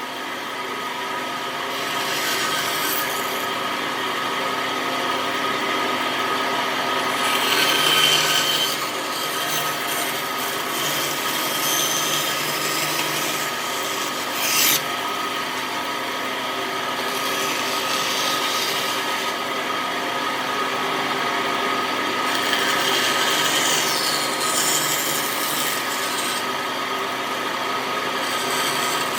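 Wood being rasped or sanded by hand, a steady rubbing scrape, over a steady hum; a single sharp click about halfway through.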